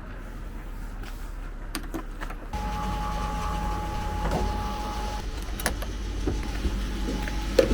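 Petrol pump dispensing fuel into a car's tank. A steady hum swells about two and a half seconds in, with a thin whine for a few seconds and scattered clicks.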